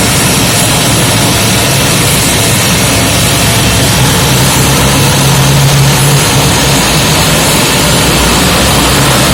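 Lockheed C-130 Hercules transport's four turboprop engines and propellers running loud and steady, a dense roar with a low drone that swells slightly in the middle.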